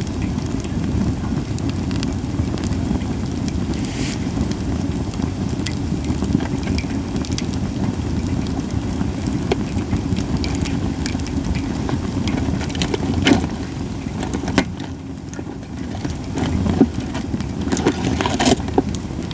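Japanese white pine (goyomatsu) campfire burning: a steady low rumble of flames with scattered sharp crackles and pops, a few louder pops in the second half.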